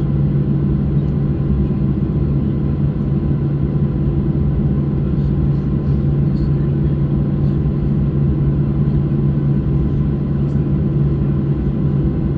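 Steady low rumble and hum inside the cabin of a Boeing 737-600 on the ground after landing, its CFM56 engines running, with faint steady whine tones over the drone.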